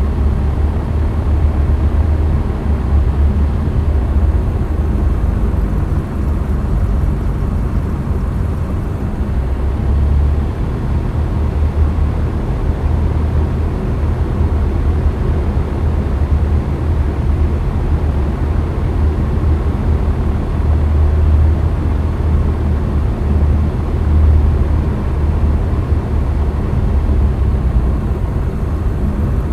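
Cessna 172's four-cylinder Lycoming engine and propeller running steadily, a constant low drone.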